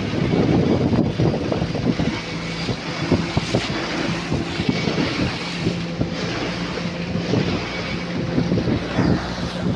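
Motorboat under way, its engine running with a steady hum, with wind buffeting the microphone and rushing water.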